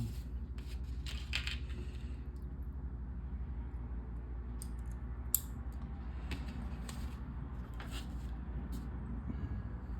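Small plastic LEGO pieces clicking and tapping as they are handled and pressed together: scattered sharp clicks, one louder near the middle, over a steady low hum.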